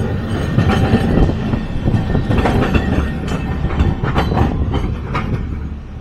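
A Nagasaki Electric Tramway streetcar running past with a steady rumble, its wheels clattering over the rail joints in a run of sharp clicks.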